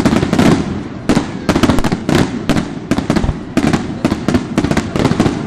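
Aerial firework shells bursting in rapid succession: a dense string of sharp bangs, several a second, over a continuous low rumble.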